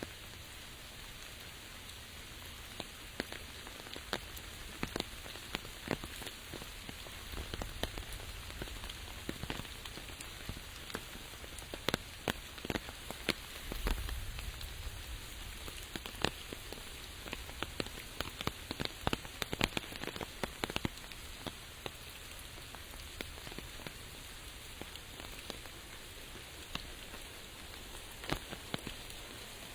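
Steady rain falling, with frequent sharp, irregular taps of drops landing close by.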